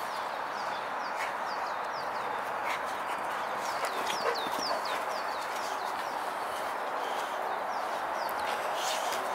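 A small bird calling, a run of short, high, falling notes repeated a few times a second, fading out around the middle, over a steady outdoor background noise.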